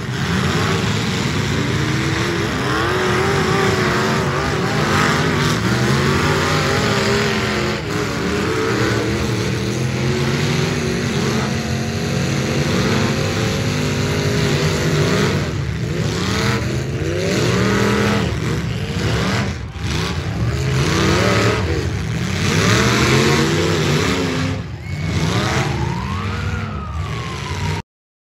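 Engines of several demolition derby cars revving up and down together, their pitches rising and falling over one another as the cars push and ram. The sound cuts off abruptly near the end.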